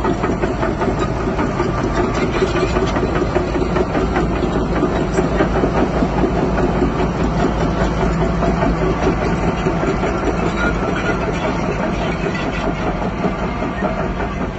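Heavy diesel engine of earthmoving machinery running steadily, with a dense, fast mechanical clatter over the hum.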